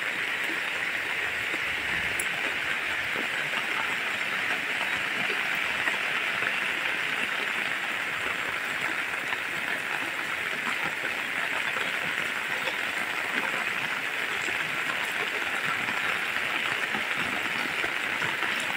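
Heavy tropical rain falling steadily on roofs and a wet paved lane: an even, unbroken hiss.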